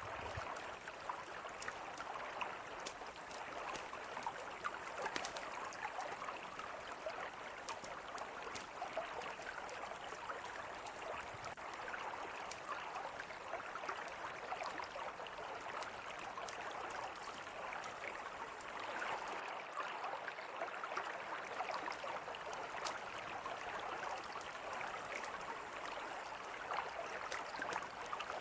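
Mountain river flowing steadily, with scattered small pops and crackles from a campfire over the rushing water.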